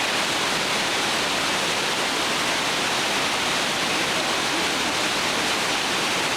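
Steady rush of river rapids, water pouring over rocks without letting up.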